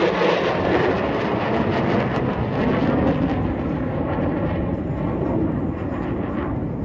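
Jet noise from a USMC F-35B Lightning II's single Pratt & Whitney F135 afterburning turbofan just after a high-speed pass flown just under the speed of sound. It is a loud, steady rumble that slowly fades as the jet moves away.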